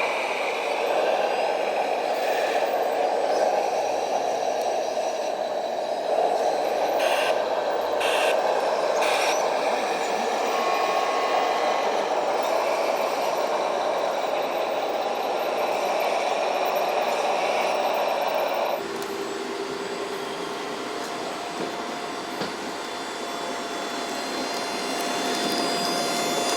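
Radio-controlled model trucks and construction machines running: a steady whir of small electric motors and gearboxes with short whines, changing abruptly about 19 seconds in.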